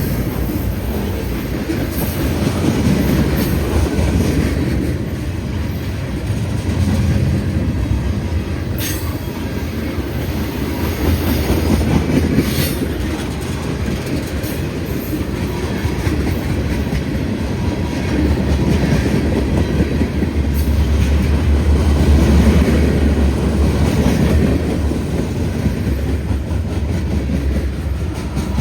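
CSX freight train's cars rolling past close by: a steady, loud rumble of wheels on rail with occasional sharp clicks of wheels over rail joints, and a stronger low hum about two-thirds of the way through.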